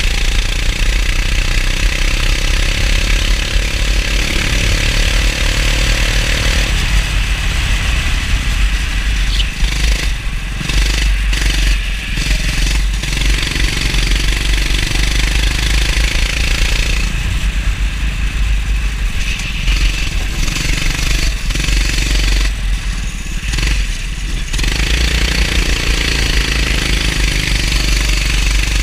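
Kart engine running hard on track, heard onboard, with a steady hiss over it; it eases off several times in the middle stretch, as when lifting for corners, then pulls again.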